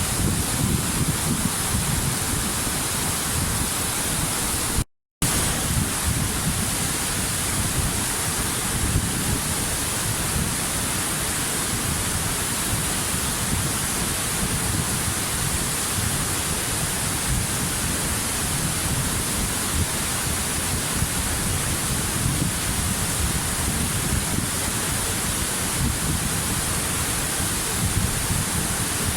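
Waterfall: a steady, unbroken rush of falling water. It cuts out completely for a split second about five seconds in, then resumes unchanged.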